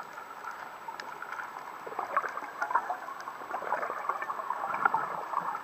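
Water bubbling and crackling as heard through an underwater camera during a scuba dive, growing louder about two seconds in.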